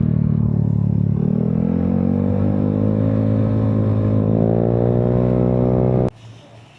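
Motorcycle engine under way, its pitch dipping about a second in and then rising steadily as it accelerates, until the sound cuts off suddenly near the end.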